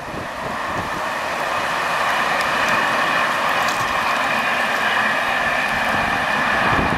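Passenger train hauled by a BB 22300-class electric locomotive running past at a distance: a steady hiss of wheels on rails with a faint high ringing, growing a little louder over the first couple of seconds.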